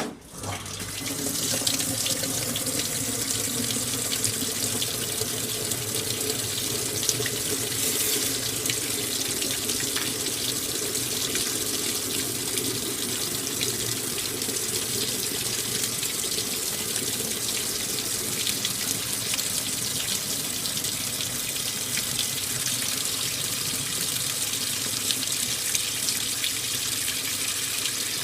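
Water pouring into the tub of an AQUA MCW-C50 coin-operated top-load washing machine as it fills at the start of the wash. The water comes on within the first second and settles into a steady rush.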